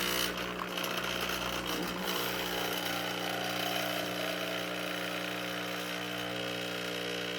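Espresso machine running with a steady mechanical buzz, shaking as it works; a low rumble under the buzz drops away about two and a half seconds in.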